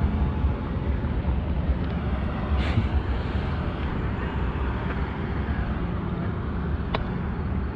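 Wind rushing over the microphone and road noise while riding an electric bike: a steady, loud low rumble with a rush above it, and a single sharp click about seven seconds in.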